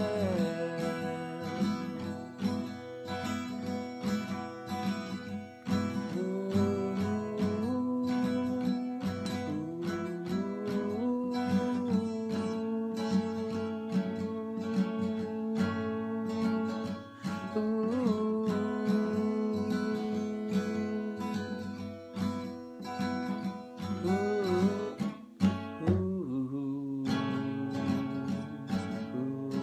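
Acoustic guitar strummed and picked through an instrumental passage, with a held melody line that slides between notes.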